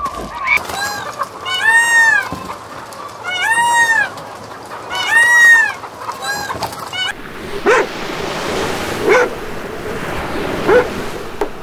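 A peacock (Indian peafowl) gives three loud calls about a second and a half apart, each rising and falling in pitch. About seven seconds in, surf takes over and a dog barks a few times.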